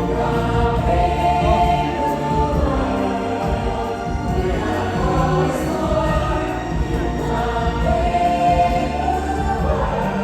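A stage musical number: a cast singing together in held notes over full musical accompaniment.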